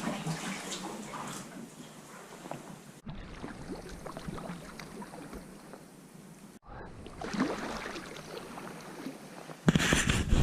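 Water splashing and lapping around a sea kayak as it is paddled, steady and moderate, with a much louder rush of wind on the microphone near the end.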